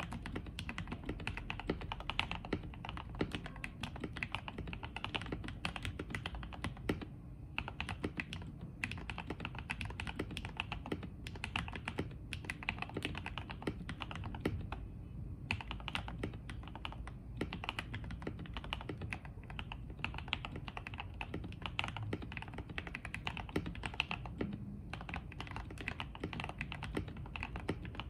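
Typing on a mechanical keyboard with lubed Gateron Milky Yellow Pro linear switches in a foam-filled FK84T case: a steady stream of rapid keystrokes with a few short pauses.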